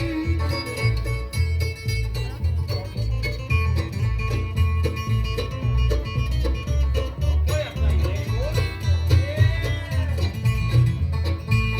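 Bluegrass band's instrumental break, with an acoustic guitar taking the lead over a steady two-beat bass line and banjo backing.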